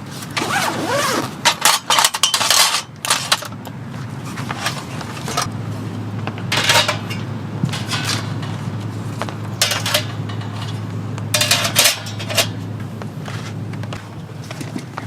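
Clinks and scrapes of metal camp cookware and utensils being handled, in a few short clusters, with a low steady hum through the middle.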